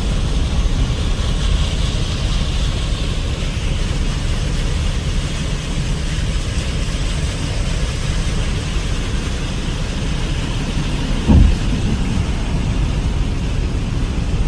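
Steady rain noise over a low, continuous rumble, with one brief thump about eleven seconds in.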